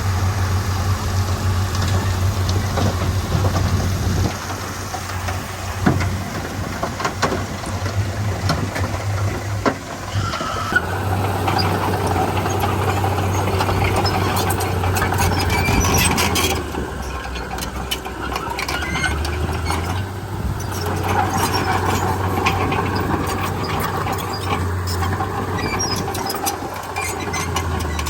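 Komatsu D31P crawler bulldozer's diesel engine running steadily under work, with squealing and sharp metallic clanks from the moving tracks and blade, the squealing strongest through the second half.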